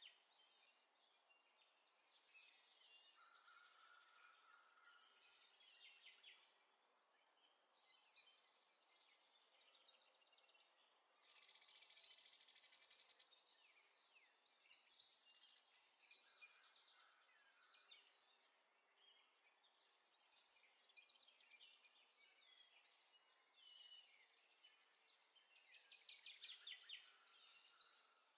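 Faint bird chirping in short, rapid trilling phrases that come and go over a low background hiss.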